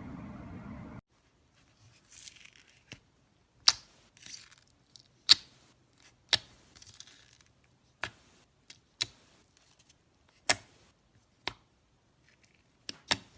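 Slime being pressed and worked by hand, giving sharp, separate pops, about one a second, with soft crackling between them. A steady hiss cuts off suddenly about a second in.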